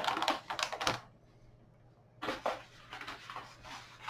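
Rustling and light clattering of packaging and small items being handled, in two short spells with a pause between them.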